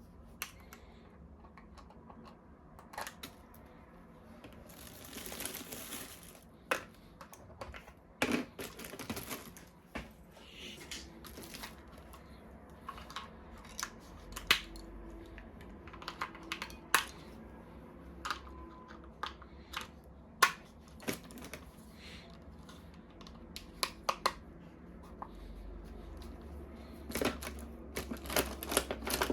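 Plastic toy guns and their packaging being handled: scattered sharp clicks and knocks, with a brief rustle of packaging about five seconds in and a quick run of clicks near the end.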